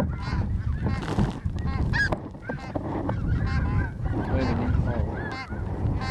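A flock of snow geese calling: many short, high, overlapping honks, over a steady low rumble of wind.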